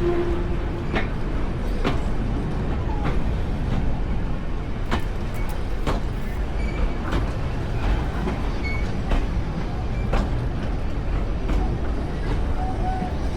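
A train running along the track: a steady low rumble with sharp knocks about once a second.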